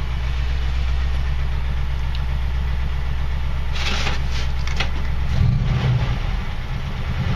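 A 1979 Jeep CJ5's AMC 304 V8, fitted with aftermarket dual exhaust, idling smoothly just after a warm restart. About five seconds in, the engine note steps up a little and gets slightly louder.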